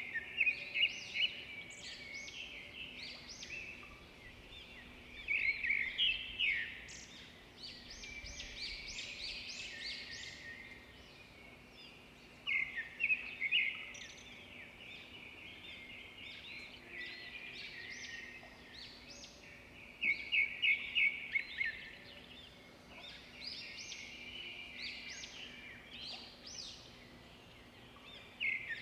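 Zebra finches calling and singing, in loud bursts of rapid, high chirping notes every seven seconds or so, with softer chatter between.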